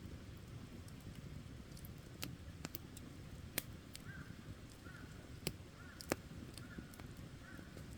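Campfire burning, with scattered sharp crackles and pops over a low, even rumble. From about halfway, a bird calls six times in a row, roughly one short call every 0.7 seconds.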